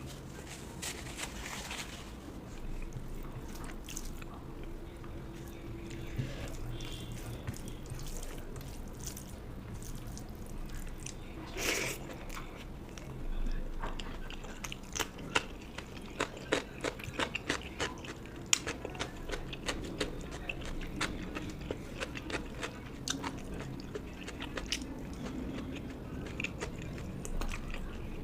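A person chewing and biting food close to the microphone, with crisp crunches and wet mouth clicks that come thickest in the middle of the stretch.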